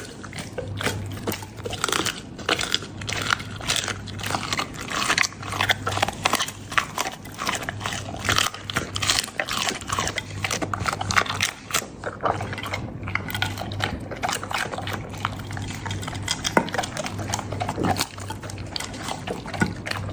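Labrador chewing and crunching raw food with bones, such as duck feet, duck heads and quail, in quick, irregular cracks and clicks that thin out briefly about two-thirds of the way through.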